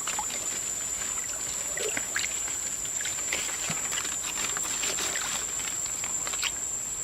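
Water splashing and trickling with many small scattered splashes, over a steady high-pitched whine.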